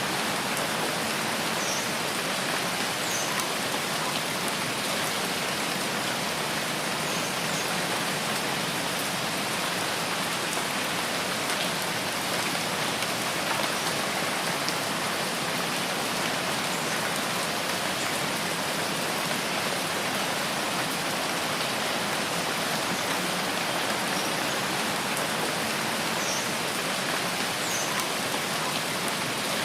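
Steady rain falling in a rainforest, an even hiss without let-up. A few faint, short high calls come through it, about two seconds in, around seven seconds in and again late on.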